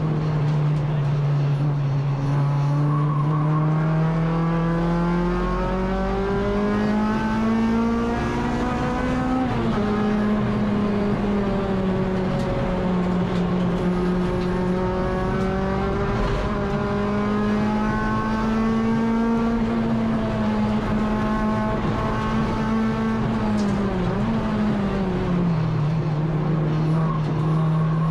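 Honda K24 four-cylinder engine of a Civic EG race car running hard at high revs, heard onboard, its pitch climbing slowly under load. The pitch drops sharply about ten seconds in and again near the end, as at a gear change or a lift.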